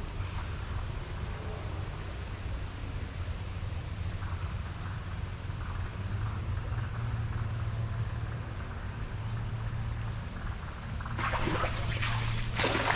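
Steady water-and-wading background with a faint high chirp repeating about once a second, then about eleven seconds in a loud splash as a smallmouth bass blows up on the Whopper Plopper topwater lure at the surface.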